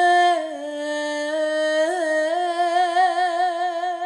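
A woman singing unaccompanied, holding one long closing note that dips slightly about half a second in and then wavers with a steady vibrato.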